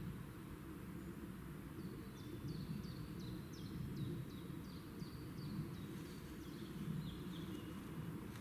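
A songbird sings a long, slow series of short high notes, each sliding downward, about three a second. The run starts about two seconds in, steps lower in pitch toward the end, and sounds over a low steady outdoor rumble.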